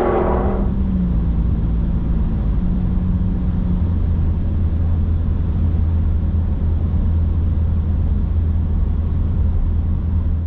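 Ford F-150 running through an AWE 0FG straight-through stainless cat-back exhaust: a steady, deep exhaust rumble that grows heavier about four seconds in.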